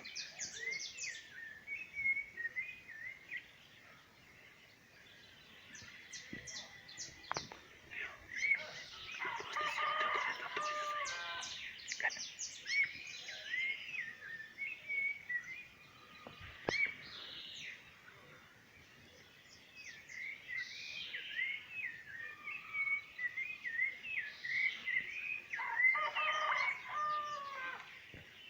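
Small birds chirping in short repeated notes, with a rooster crowing twice: once about ten seconds in and once near the end.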